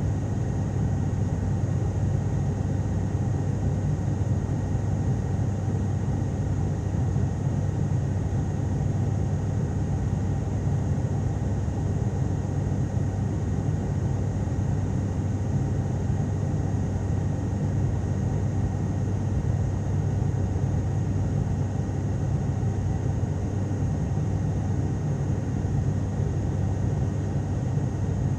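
Steady drone of an ATR turboprop airliner's engines and propellers heard inside the passenger cabin, a low even hum with faint high steady tones over it.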